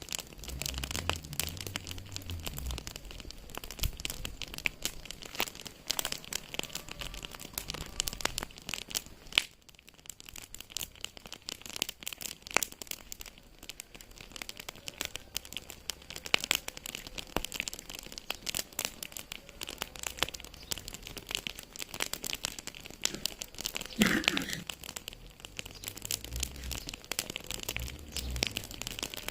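Wood fire in a fireplace crackling: a dense, irregular run of small snaps and pops, with one louder pop near the end.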